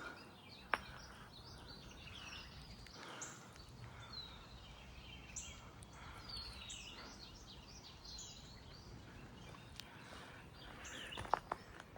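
Birds chirping and singing: many short overlapping calls and quick sliding notes over a faint outdoor background, with a couple of sharp clicks about a second in and near the end.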